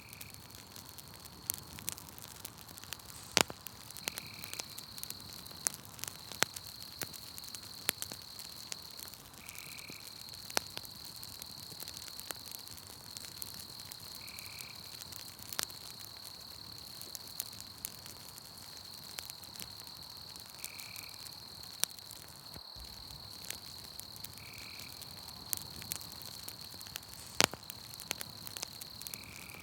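Campfire crackling in scattered sharp pops over a steady high-pitched insect trill. A short call repeats about every four to six seconds.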